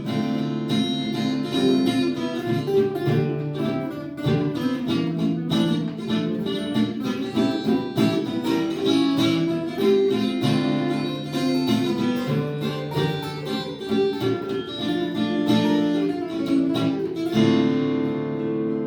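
Acoustic guitar playing an instrumental passage of picked and strummed chords, with a fresh strummed chord near the end.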